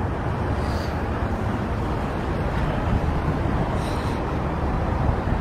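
Truck engine idling with the hood open: a steady low rumble.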